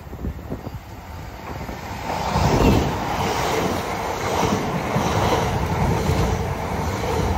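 Elizabeth line Class 345 electric train running along the platform: its rumble swells from about two seconds in as the carriages come alongside, with a regular pulse of wheel noise a little faster than once a second.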